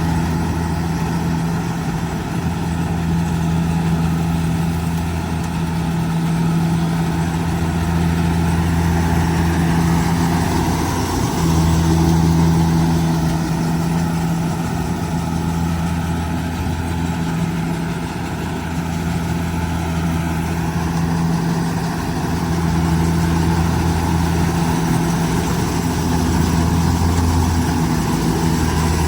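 Kubota DC70G Plus combine harvester's diesel engine running steadily, with a constant low hum and only slight rises and falls in level.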